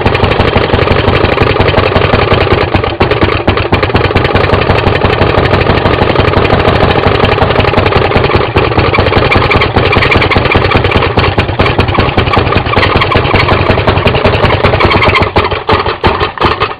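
Maytag Model 92 single-cylinder two-stroke washing-machine engine running fast with a rapid, crackling stream of firing strokes. It turns ragged about a second before the end and dies away.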